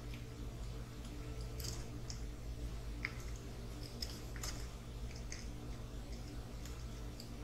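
Scattered light clicks and taps of small parts of an RC crawler kit being handled and fitted together, over a steady low hum.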